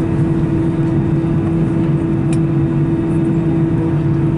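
Steady drone inside an Airbus A319 cabin after arrival: a constant low hum with air rushing, from the aircraft's ventilation and ground power running while it is parked. There is one faint click about two seconds in.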